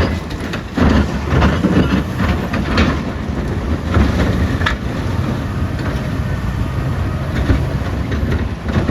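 Caterpillar 966D wheel loader's diesel engine running hard, with rocks knocking and clattering several times.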